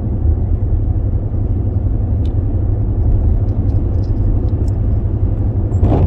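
Steady low rumble of a car's engine and tyres heard from inside the moving car, with a brief sharper noise just before the end.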